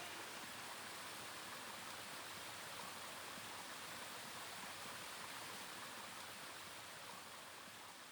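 Waterfall rushing as a faint, steady wash of water noise, easing slightly lower near the end.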